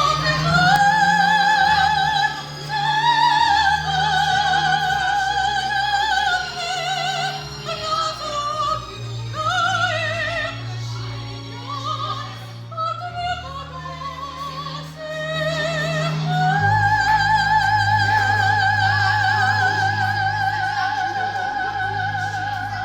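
A female soprano sings in a classical, operatic style with wide vibrato over a low, steady accompaniment. Near the end she holds one long high note for about six seconds.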